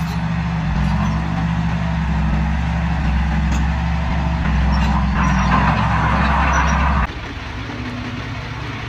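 Heavy diesel engine of an earthmoving machine running steadily, joined by a rushing noise from about halfway in. At about seven seconds the sound drops suddenly to a quieter engine hum.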